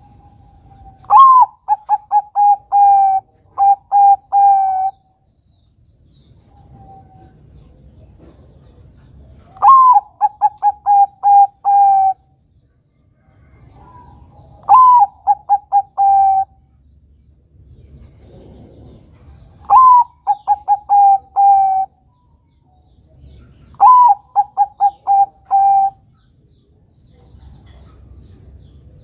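Bangkok-bred zebra dove (perkutut) singing: five cooing phrases a few seconds apart, each opening with a slightly higher note and running on in a quick series of short, even coos.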